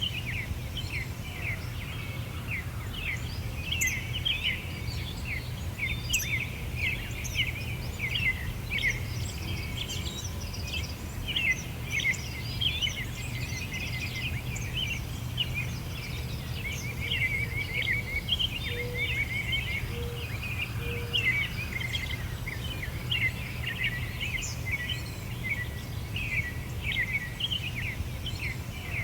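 Many small songbirds chirping and trilling at once in a dense, continuous chorus, over a steady low background rumble. About two-thirds of the way through, three short, lower notes sound from a different bird.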